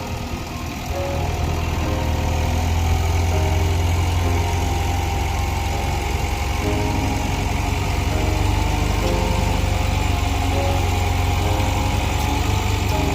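TCM bulldozer's diesel engine running steadily with a heavy low rumble, getting a little louder about two seconds in.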